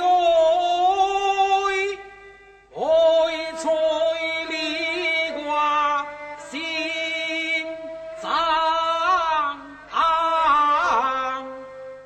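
Teochew opera singing: a single voice draws out long notes that slide and waver in pitch, in phrases broken by short pauses.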